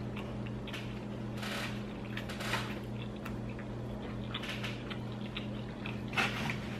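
A person chewing a bite of a breaded fried-chicken sandwich: scattered soft crunches and mouth sounds over a steady low hum, with a louder short noise near the end.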